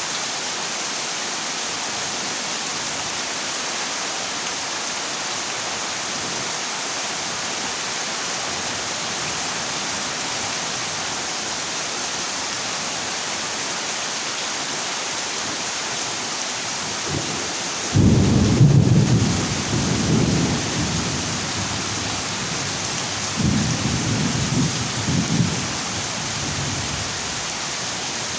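Heavy rain falling steadily on a corrugated zinc roof. A low rumble of thunder breaks in suddenly about two-thirds of the way through, and a second, shorter rumble follows a few seconds later.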